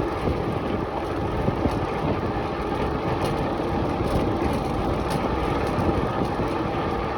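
Steady rumble of wind and tyre noise from a moving bike.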